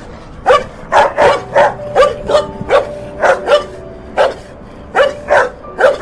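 Dog barking repeatedly: a quick run of short, sharp barks, about two to three a second, with a brief pause about two-thirds of the way through.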